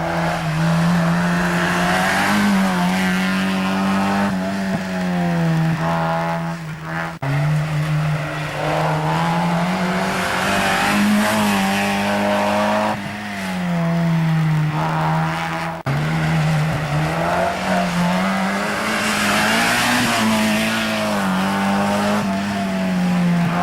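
Mazda MX-5 race car engines running hard, their pitch climbing and dropping again and again as the cars accelerate and shift. The sound breaks off and starts afresh abruptly twice.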